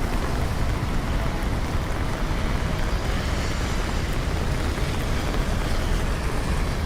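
Steady rain with the low rumble of city traffic, an even, unbroken wash of noise.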